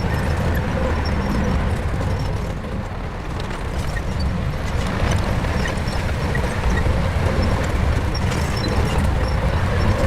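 Shantui bulldozer's diesel engine running steadily with a deep rumble, getting a little louder about five seconds in.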